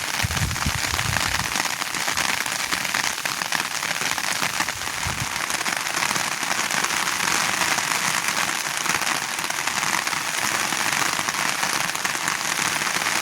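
Steady rain falling, an even, dense hiss that holds at one level throughout.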